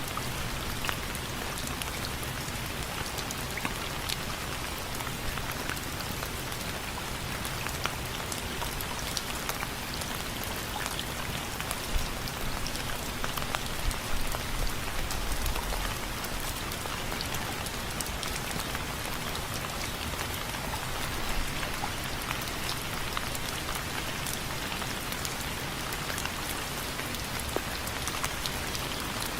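Steady rain falling on window frames: a dense even hiss dotted with many separate drop hits. A few louder, deeper hits come about halfway through.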